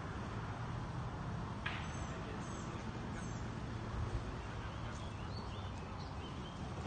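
Outdoor background noise with a steady low rumble, and a few short, high bird chirps scattered through it.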